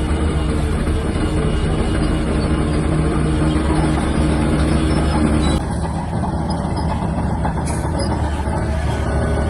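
Diesel engine of a Shantui DH17-C3 bulldozer running steadily with a deep rumble. The sound shifts suddenly, a little quieter, a little over halfway through.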